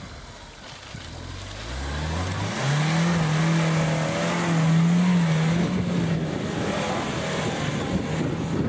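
Opel Frontera Sport's engine revving up and then held at high revs under load as the 4x4 climbs a steep muddy slope. The note rises over the first few seconds, holds steady, and fades into a rough, noisy rumble after about six seconds.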